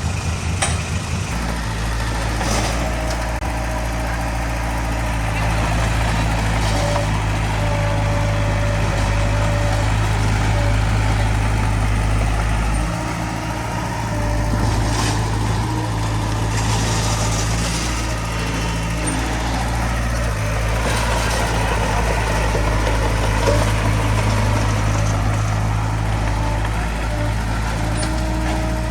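Bulldozer's diesel engine running steadily under work, with a few short high squeals and brief bursts of noise over it.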